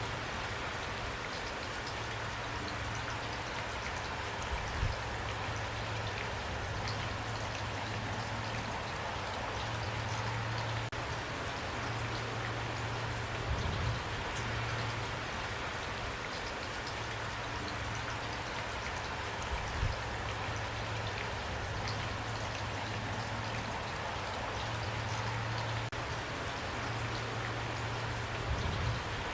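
Steady rain falling, with a low hum underneath and three brief low thumps.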